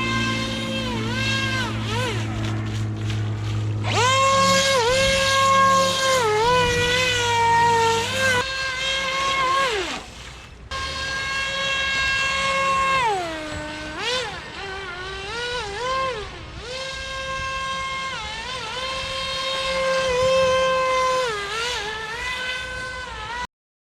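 Aquacraft Cajun Commander RC airboat's brushless motor and air propeller running at speed. It makes a steady high whine that repeatedly drops in pitch and climbs back as the throttle is eased off and reapplied. It cuts off suddenly near the end.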